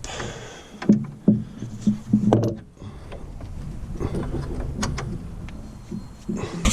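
Several sharp knocks and clanks of metal suspension parts being handled and fitted by hand.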